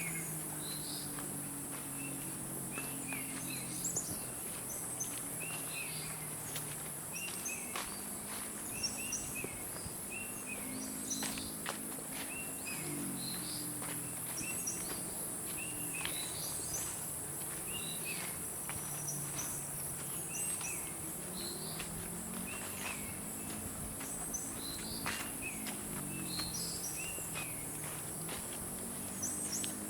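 Tropical forest ambience: a steady high insect drone with bird chirps repeating every second or two, footsteps along the trail, and a low hum rising and falling underneath.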